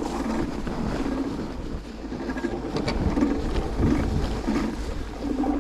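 Strange, uneven rubbing noise from the hub-motor wheel of an electric two-wheeler while riding, over wind rumble on the microphone. The rider cannot place it and suspects a delaminated brake pad or a failing motor bearing.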